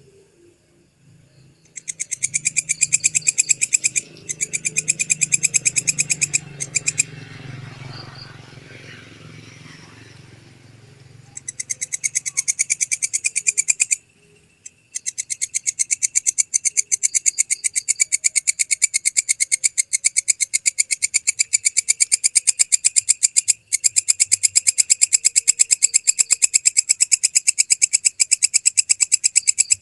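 Walang kecek katydid (belalang kecek) stridulating: a rapid, even, shrill train of pulses. It starts about two seconds in, pauses for a few seconds in the middle, then calls continuously from about halfway on.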